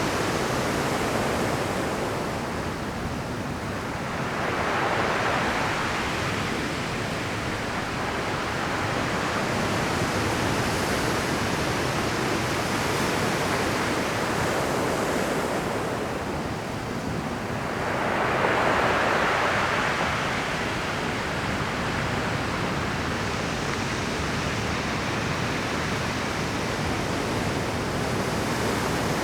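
Rough Pacific surf breaking on a rocky shore: a continuous wash of water with two larger waves crashing in, about five seconds in and again near the twenty-second mark.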